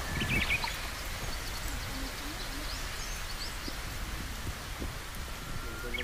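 Outdoor ambience: a steady background hiss with a low rumble, and a few short, high bird chirps about half a second in and again around two to three seconds in.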